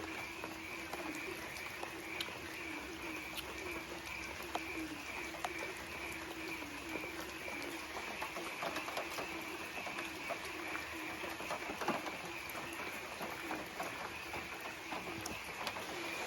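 Doves cooing in a continuous, gently pulsing chorus, over a steady high pulsing tone and scattered light ticks.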